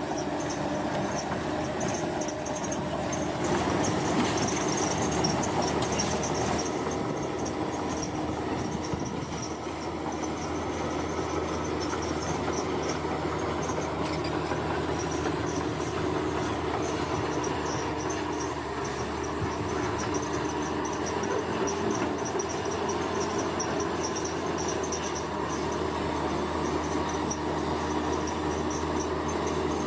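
Bulldozer's diesel engine running steadily under load as it works, with a pulsing high-pitched tone above it. It gets a little louder about four to six seconds in.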